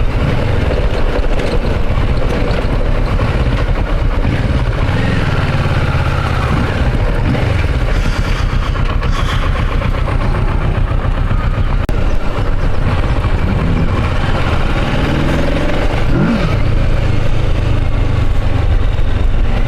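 Motorcycle engine running steadily, its pitch rising and falling a few times with the throttle.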